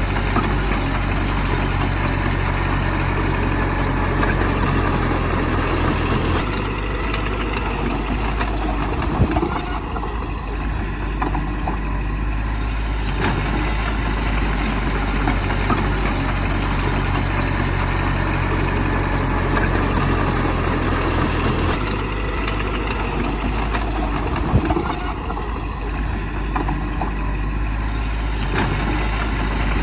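Heavy diesel engine running steadily. Its note eases twice, about six seconds in and again about twenty-two seconds in, with an occasional short knock.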